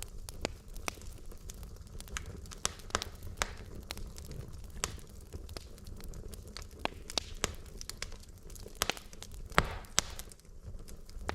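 Wood logs burning in a fireplace, crackling with irregular sharp pops over a low steady rumble of the flames. The loudest pop comes near the end, followed by a brief hiss.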